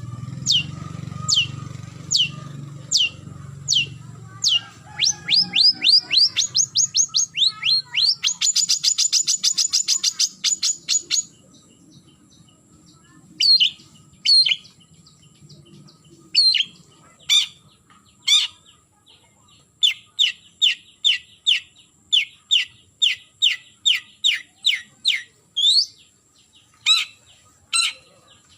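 Long-tailed shrike giving its rival-challenging call: sharp, down-slurred notes, spaced at first and then speeding into a fast rattling run. After a pause and a few scattered notes, it resumes at about two notes a second.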